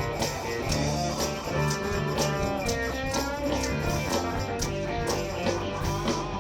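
Live soul-rock band playing an instrumental break, an electric guitar lead over bass and a steady drum beat.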